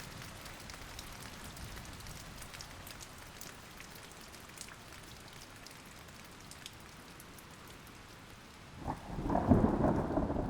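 Steady rain falling with scattered drop ticks, then a sudden loud rumble of thunder about nine seconds in.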